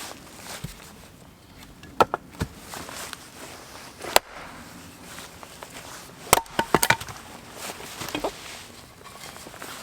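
Irregular sharp knocks and cracks: single strikes about two and four seconds in, then a quick cluster of several strikes between six and seven seconds.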